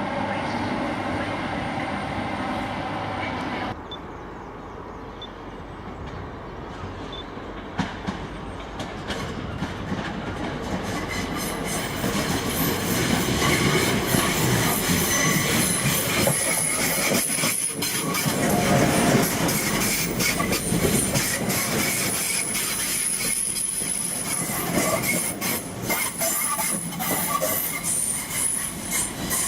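Passenger train running along the track. It grows louder from about eight seconds in, with rapid clicking of wheels over rail joints and a high, steady wheel squeal. An earlier sound cuts off abruptly about four seconds in.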